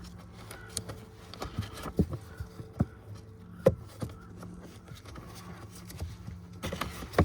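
Cabin air filter being pulled out of its plastic housing behind the glove box: scattered plastic clicks and knocks with light rustling and scraping, over a faint steady hum.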